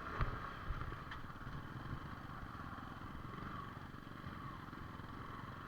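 Yamaha R15 V4 motorcycle's single-cylinder engine running steadily at low speed on a rough trail, with a couple of short knocks in the first second or so.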